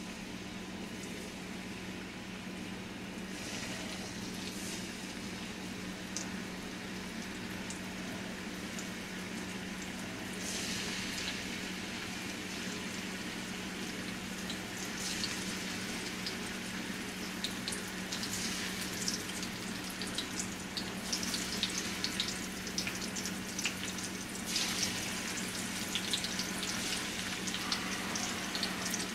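Seasoned shrimp sizzling in hot olive oil in a frying pan as more shrimp are laid in. The crackling and spitting grows busier and louder through the second half, over a steady low hum.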